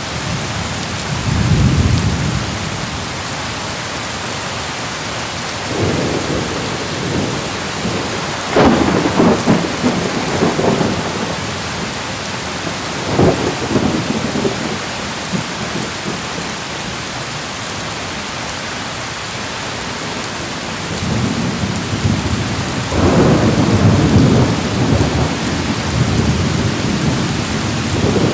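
Thunderstorm: steady heavy rain hissing, with repeated rolls of thunder rumbling over it, several short ones and a long drawn-out roll in the last third.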